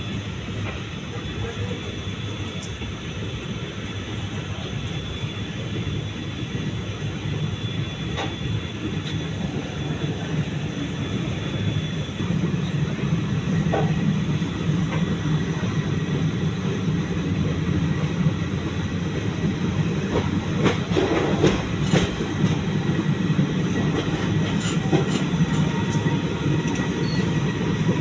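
Passenger train running on the rails, a steady rumble with clicks and knocks of the wheels over rail joints. It grows louder about twelve seconds in, with a cluster of sharper knocks some twenty seconds in.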